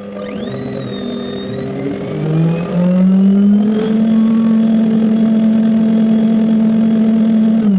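Washing machine motor spinning up: a whine that rises in pitch for about four seconds, then holds steady at full spin speed, and drops away near the end.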